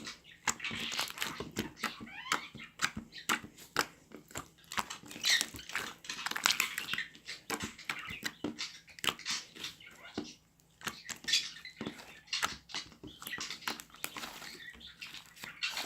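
Firm jelly slime being squeezed and pulled by hand: a dense run of sticky clicks, pops and squelches, with a short pause about ten seconds in.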